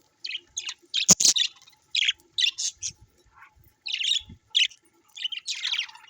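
Birds chirping and calling in quick, short high notes, several to the second in bursts. There is one sharp click about a second in.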